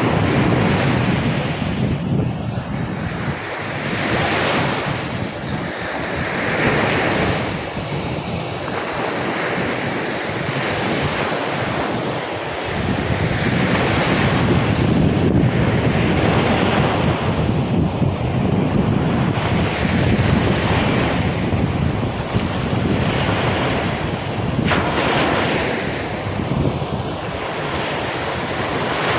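Rough storm surf breaking and washing on a sandy beach, rising and falling every few seconds, with strong wind buffeting the microphone.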